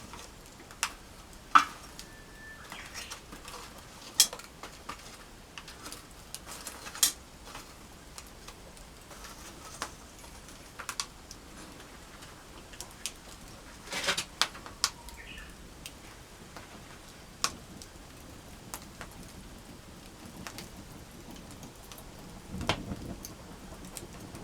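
Wood campfire crackling, with sharp irregular pops and snaps over a soft hiss.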